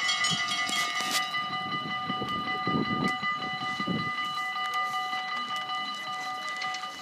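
Steam locomotive 01 1075 standing or moving slowly, with a steady high-pitched whine held throughout, some hissing and clatter in the first second, and low rumbling chuffs between about two and a half and four seconds in.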